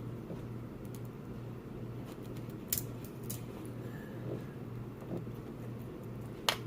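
Crab leg shells being cracked open: a few sharp snaps, the loudest near the end, over a steady low hum.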